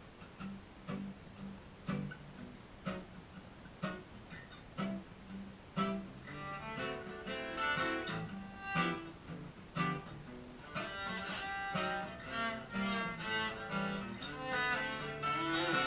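An acoustic guitar strums a slow, even pulse of about one stroke a second. About six seconds in, a fiddle joins with a sustained melody over it, in the instrumental opening of a folk song.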